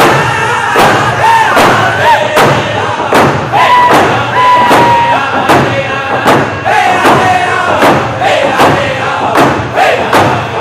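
Native American round dance song: a group of singers sings high, sliding lines over a steady beat of hand drums, about two beats a second.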